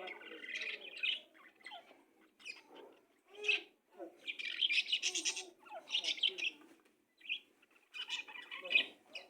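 Small birds chirping in quick clusters of short, high notes, broken by brief pauses.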